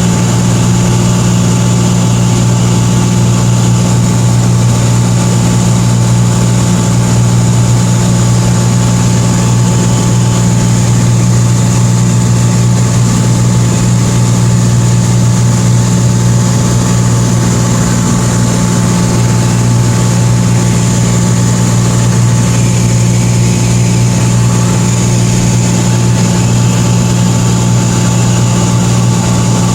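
Light aircraft's piston engine and propeller droning steadily in cruise flight, one constant low hum with no change in pitch.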